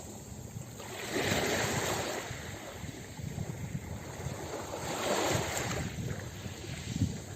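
Ocean surf breaking on a beach: two waves wash in about four seconds apart, each a swell of rushing noise that fades back, with a short low thump just before the end.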